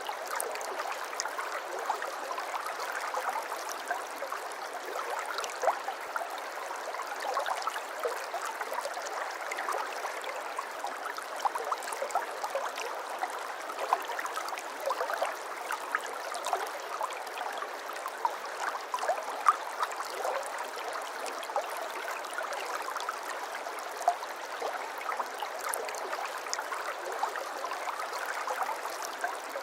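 Small stream of water flowing and babbling steadily, with many little plinks and gurgles throughout.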